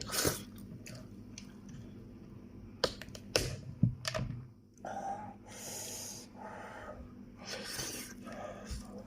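Close-up eating noises from a man chewing fried meat: several sharp clicks and smacks, then two longer hissing sounds, one about halfway through and one near the end.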